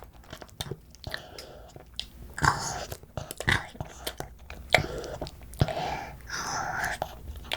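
Close-up eating of black bean noodles: chewing with many sharp wet mouth clicks and a few short, louder noisy spells.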